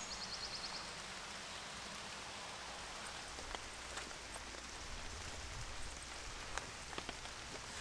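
Light, steady rain falling, with single drops now and then striking close by as sharp ticks.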